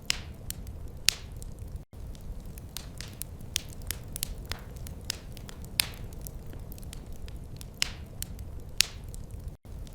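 Wood fire crackling in a fireplace: irregular sharp crackles and a few louder pops over a steady low rumble. The sound cuts out for an instant twice, about two seconds in and near the end.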